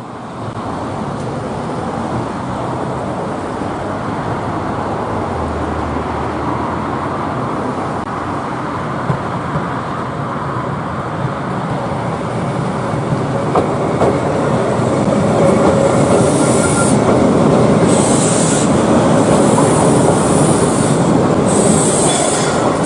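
A train running along its track, the noise growing louder in the second half, with bursts of high-pitched wheel squeal near the end.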